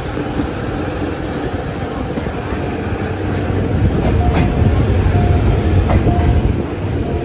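Passenger train running on the track, a steady rumble of wheels on rails heard from inside the coach. It grows louder partway through, with a couple of sharp clacks near the middle.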